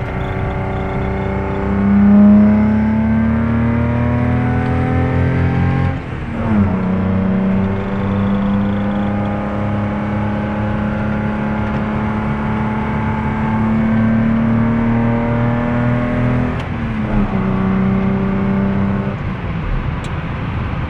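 1971 Datsun 240Z's 2.4-litre straight-six on triple 40 Dellorto carburettors, with the centre exhaust box removed for a Bosal rear silencer, pulling through the gears as heard from inside the cabin. The engine note climbs slowly with road speed, drops sharply at two upshifts, about six seconds in and again about sixteen seconds in, and thins out near the end.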